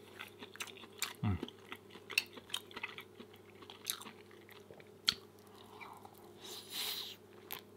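Close-miked chewing with many small wet mouth clicks, a short low falling hum about a second in, a sharp click about five seconds in and a brief hiss near the end.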